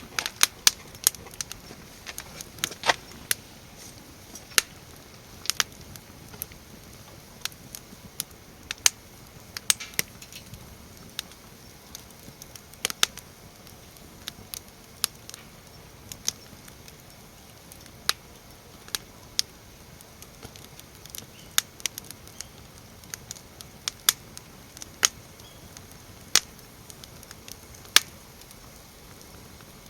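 Wood fire crackling, with sharp irregular pops one to three a second over a faint hiss.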